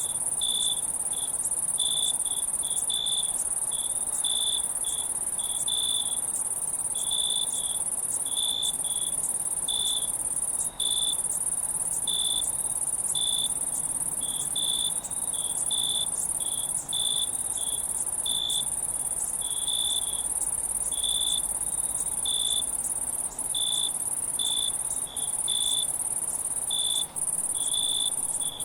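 Crickets at night: a steady, very high-pitched trill with short, lower chirps repeating about once or twice a second over it.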